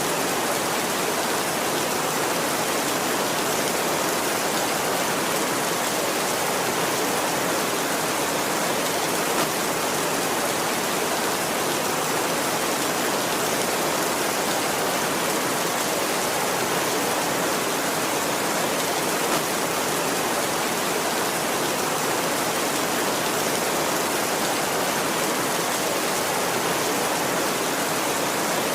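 Steady heavy rain, an even hiss with no thunder.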